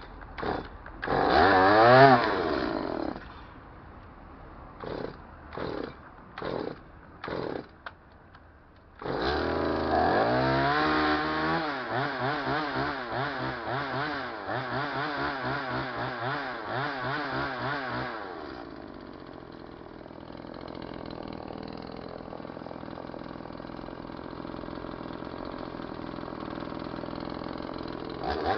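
Stihl MS-180 two-stroke chainsaw engine started for the first time after a new piston, rings and seals: several short bursts as it is pulled over, one brief catch early on, then it catches about nine seconds in and runs fast with its pitch wavering. About eighteen seconds in it drops to a lower, steadier idle.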